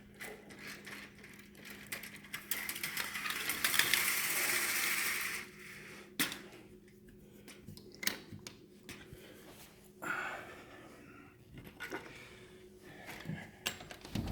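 Footsteps and handling clicks of someone walking out of a house, with a loud rushing, scraping noise for about three seconds starting two seconds in and several sharp clicks after it.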